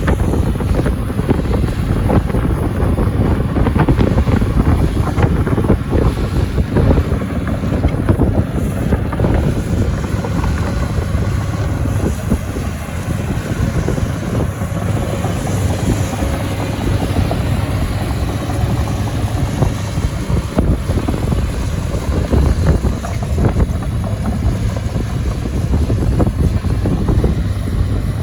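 SANY SY215C crawler excavator's diesel engine running steadily under work, with wind buffeting the microphone.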